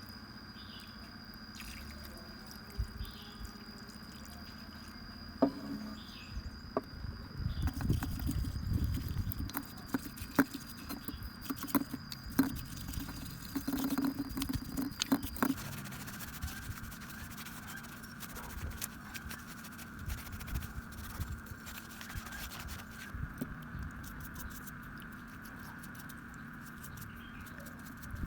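Small hand-work noises on an angle grinder being restored: scattered light clicks, taps and scratching, busiest and loudest in the middle stretch, then sparse.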